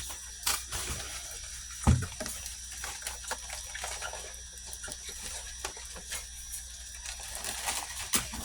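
Moon crabs being handled in their container: scattered light taps and clicks, with one louder knock about two seconds in.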